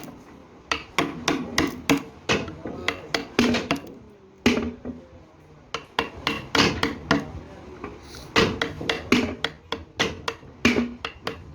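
Hand hammering: a run of sharp blows, roughly two a second, with short breaks about four and eight seconds in.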